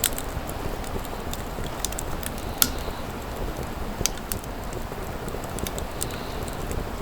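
Wood bonfire burning with a steady low rush and scattered sharp crackles and pops, the loudest a little over two and a half seconds in.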